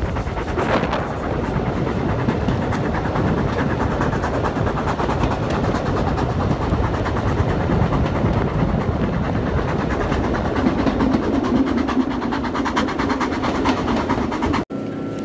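Jacobite steam train's carriages running along the track, heard from an open window: a steady rumble with fast wheel clatter on the rails and wind on the microphone. It cuts off abruptly near the end, giving way to a quieter, steadier train hum with a few level tones.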